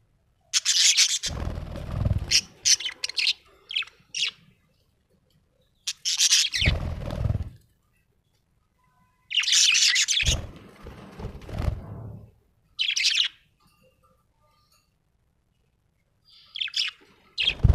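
Small parrot chirping in short bursts of rapid, high chirps, five bursts with pauses of silence between them. A low rumble sounds under several of the bursts.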